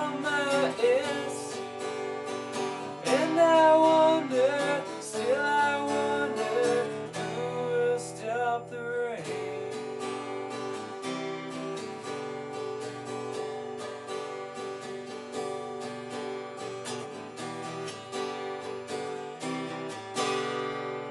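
Acoustic guitar strummed steadily through a chord progression, with a held, gliding sung line over roughly the first nine seconds. The strumming then goes on alone and ends on a final chord that rings out near the end.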